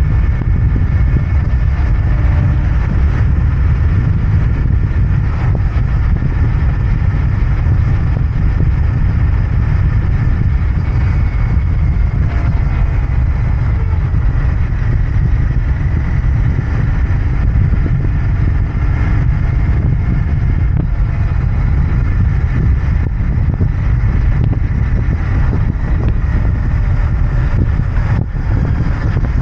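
Royal Enfield Interceptor 650's parallel-twin engine and exhaust running steadily while the bike is ridden, a deep, even engine note with no marked revving.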